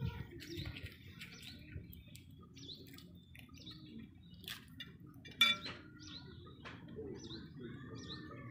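Small birds chirping, short high notes repeated over and over. About five and a half seconds in, a metal spoon clinks once against a ceramic bowl and rings briefly.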